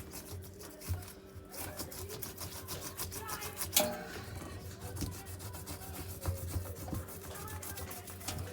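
Scrubbing on a washing machine during cleaning: a rapid, irregular series of short scraping strokes.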